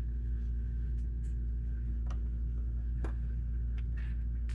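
Steady low hum with a few faint clicks and taps.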